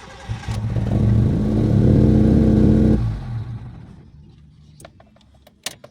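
Mitsubishi GSR engine cranked by the starter, catching and rising in revs, then sagging and dying out after about three seconds, followed by a few light clicks. This is its hard-starting, stalling fault, which the mechanic traces to clogged air passages in the throttle body.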